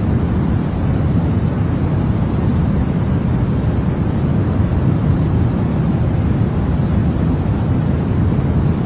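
Steady baby-sleep white noise: a continuous deep rushing hiss, heaviest in the low end, with no change in level.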